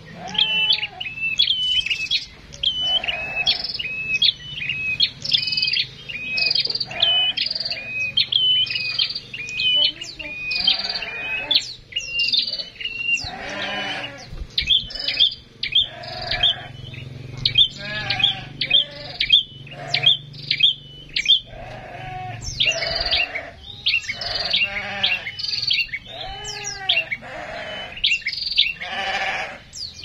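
Small aviary birds calling: a steady run of short, high chirps, about two a second, with louder, harsher wavering calls mixed in that grow more frequent from about halfway through.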